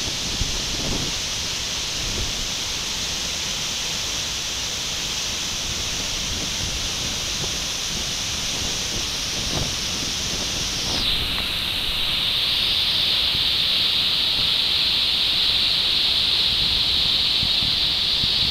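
Steady rushing hiss of a rainforest waterfall. About eleven seconds in the sound changes abruptly to a louder, narrower hiss.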